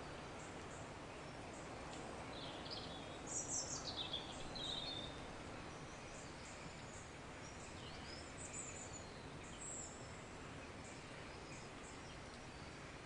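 Nature-sound ambience: a steady soft outdoor hiss with birds chirping, a quick run of high chirps about three seconds in and a few scattered calls later.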